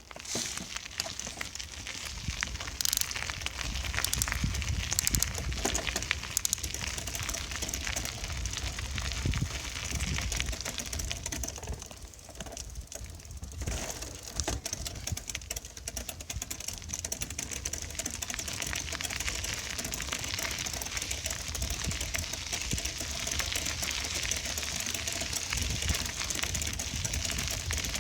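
Bicycle being ridden: tyres rolling over the ground with continuous fast rattling and clicking from the bike, over a low rumble.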